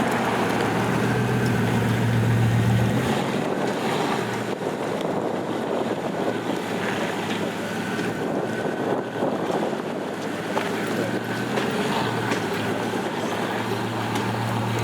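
Steady street traffic noise with a low engine hum, strongest a second or two in and again near the end.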